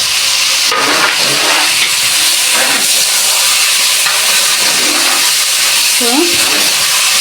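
Tomatoes sizzling steadily as they fry in hot coconut oil in a pan.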